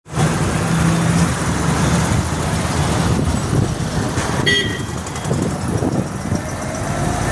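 Motor vehicle engines running amid road noise, with a brief horn toot about four and a half seconds in.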